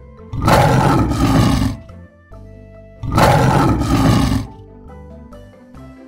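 Lion roaring twice, each roar about a second and a half long, over light background music.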